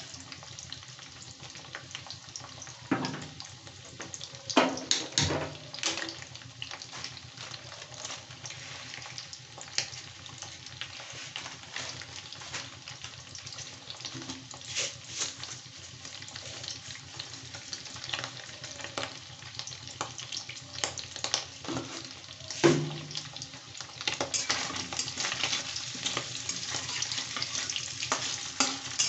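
Paneer cubes sizzling and crackling in hot mustard oil in a wok, with a few sharp louder pops. Near the end a spatula stirs them, and the sizzle grows louder and busier.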